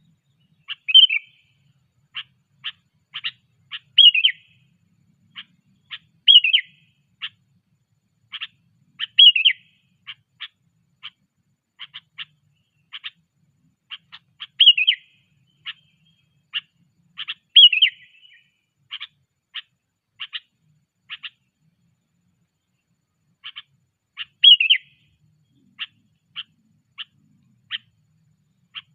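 Sooty-headed bulbul calling: a short, slurred whistled note repeated every two to three seconds, with quick sharp ticks between the notes.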